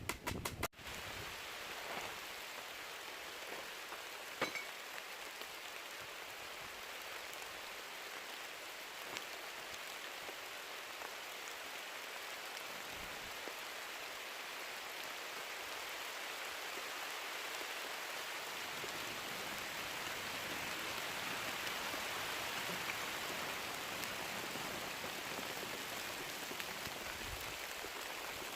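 Steady rain falling, an even hiss that swells gently in the second half, with a few faint ticks of drops.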